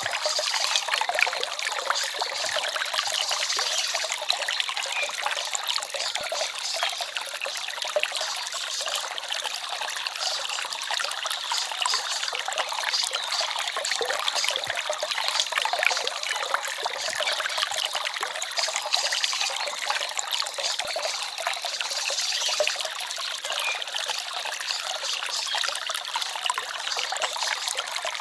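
Forest stream water babbling and trickling steadily, a constant splashy rush with no pauses.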